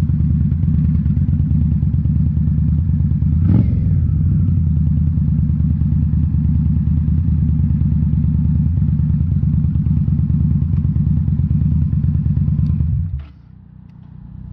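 2018 Indian Scout Bobber's V-twin running steadily through Rinehart slip-on mufflers, with a short thump about three and a half seconds in. The engine sound falls away sharply near the end.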